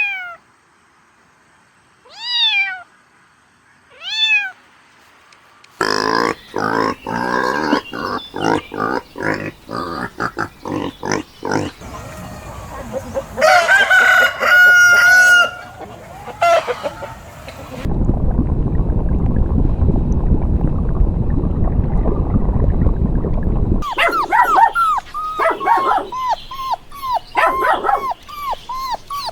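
A run of domestic animal calls one after another: two short cat meows about two seconds apart, then a rapid string of short calls, a held higher-pitched call, several seconds of low rough noise, and quick repeated chirping calls near the end.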